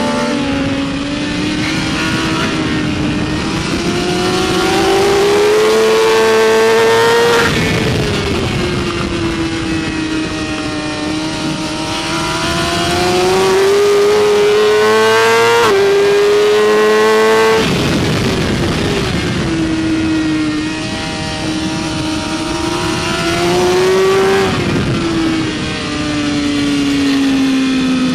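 BMW S1000RR superbike's inline-four engine at racing revs: the revs climb hard, fall away under braking, and climb again, three times over, with a quick upshift about halfway through.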